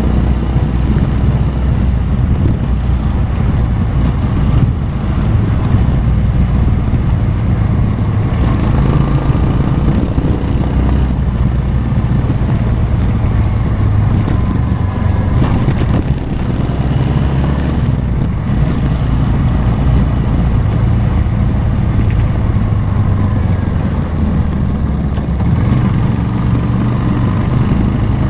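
Motorcycle engine running steadily while riding, its note rising and falling slightly a few times with the throttle.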